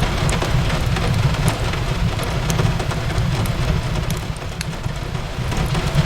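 Steady rain on a window mixed with a fireplace crackling, its sharp pops scattered irregularly over the rain, with a deep steady rumble underneath.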